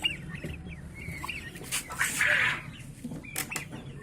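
Poultry chicks peeping: many short, high calls, with a scratchy rustle about two seconds in.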